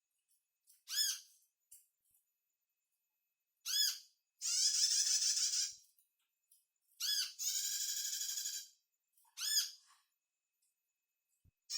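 Sunbird song: phrases of a short, arching, high-pitched call followed by a longer buzzy trill, repeating every few seconds with silent gaps between.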